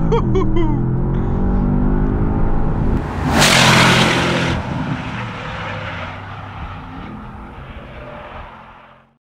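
Porsche Panamera Turbo S's twin-turbo 4.0-litre V8 accelerating hard from a standing start. There is a loud rush of noise about three and a half seconds in, then the engine sound fades steadily and cuts off near the end.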